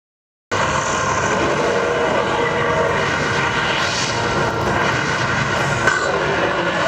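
A loud, steady roar, like a jet engine, from the soundtrack of an outdoor projection-mapping show played over loudspeakers. It cuts in abruptly about half a second in after a brief total dropout.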